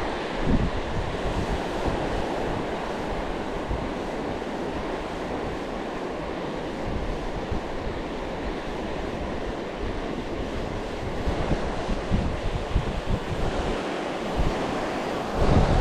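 Surf washing onto the shore, with wind buffeting the microphone in gusts that grow stronger near the end.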